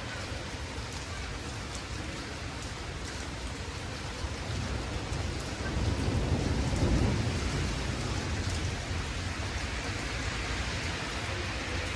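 Steady rain falling, with a low rumble of thunder that swells about halfway through and slowly dies away.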